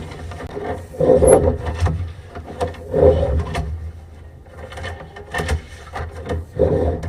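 Sewer inspection camera's push cable being fed down a drain line: irregular knocks, clicks and rattles of the cable and reel, with a few louder bumps, over a steady low hum.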